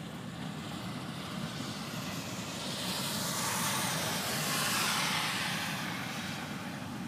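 Florida East Coast Railway freight train rolling past with a steady low rumble. A broad hiss swells up about two and a half seconds in, peaks near five seconds and fades away by about six.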